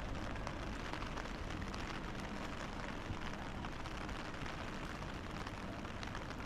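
Steady rain on a city street: an even hiss dotted with many small drop ticks, over a low street rumble.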